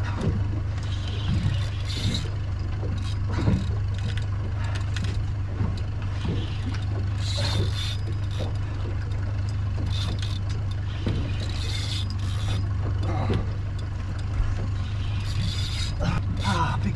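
Fishing reel being wound against a heavy fish, its gears and drag clicking in short bursts every few seconds as a large golden trevally pulls on the jig, over a steady low hum.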